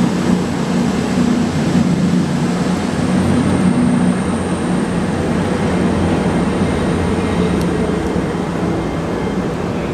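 Class 387/1 Electrostar electric multiple unit heard from on board while running: a steady rumble of wheels and running gear with a faint, high, steady whine above it.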